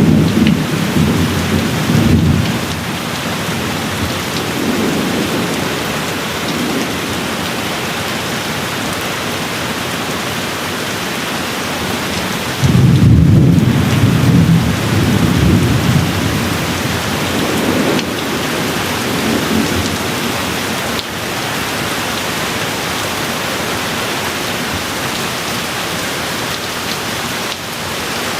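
Steady heavy rain with thunder rumbling: one rumble fades away in the first couple of seconds, and a louder roll of thunder sets in about twelve seconds in and dies away slowly over several seconds.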